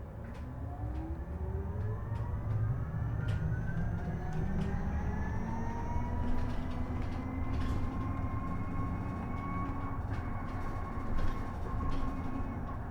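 Isuzu Erga EV electric bus's drive motor whining as it pulls away, the pitch rising over the first six seconds or so and then holding steady. Underneath is the low rumble of tyres and road, with a few light rattles.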